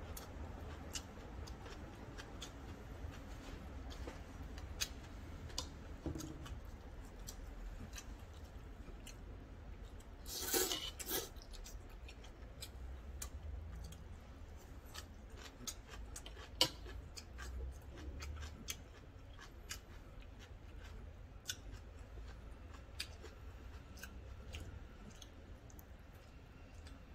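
Close-miked chewing and mouth sounds of a person eating gimbap and ramyeon: many small wet clicks, with a louder brief burst of noise about ten and a half seconds in. A steady low hum runs underneath.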